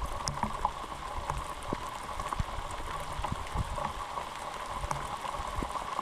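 Light rain pattering on the boat and the lake surface, with many small scattered drop ticks over a steady hum.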